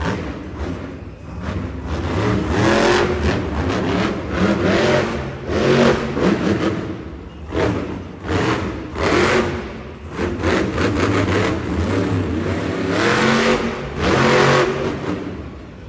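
Monster truck engine revving in repeated surges, its pitch climbing and falling again every second or two.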